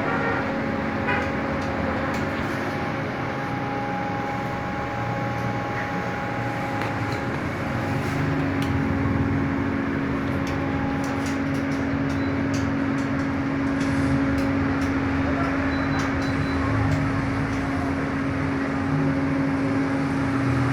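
Daikin inverter mini-split air conditioner running: a steady hum over a whooshing fan noise, the hum growing stronger about eight seconds in.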